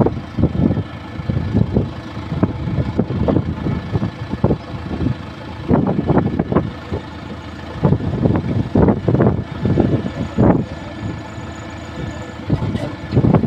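Heavy diesel engine running, with uneven loud pulses over a steady drone.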